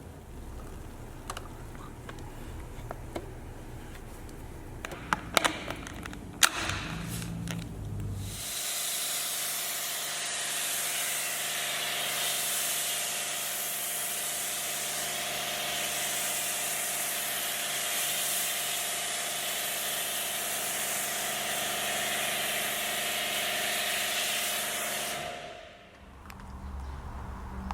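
A detailing tool spraying with a steady hiss and a hum under it. It comes on about eight seconds in after a few sharp clicks and cuts off near the end.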